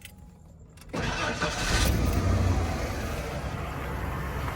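A 1996 Ford F-150's 4.9-litre inline-six engine starting about a second in, flaring briefly and then running steadily. The start comes after a faulty switch in the fuel pump circuit was replaced, which cured the no-start.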